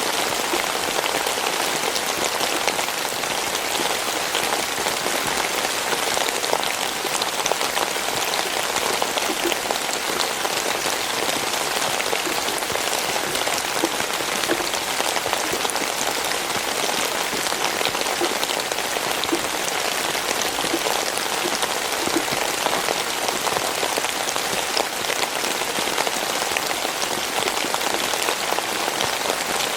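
Steady rain falling: a dense, even hiss with small individual drop hits scattered through it, unchanging throughout.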